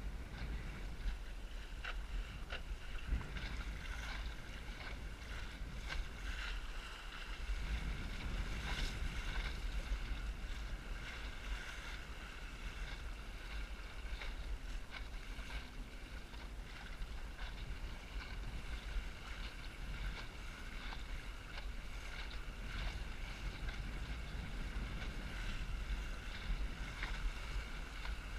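Strong wind buffeting the microphone in a steady low rumble, over water rushing and splashing around a small Snark sailboat.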